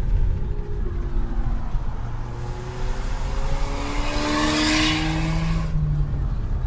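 Turbocharged four-cylinder of a 2019 Mustang EcoBoost with a muffler-delete exhaust, accelerating: the engine note climbs steadily through the middle, then eases off near the end.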